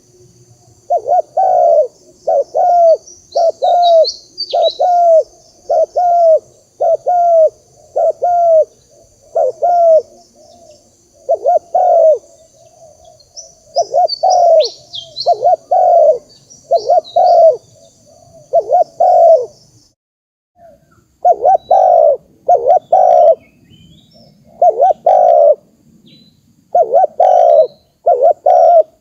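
Dove cooing: a long series of short coos, roughly one a second, with a brief pause about two-thirds of the way through. A steady high-pitched insect drone runs underneath until that pause, with a few faint small-bird chirps.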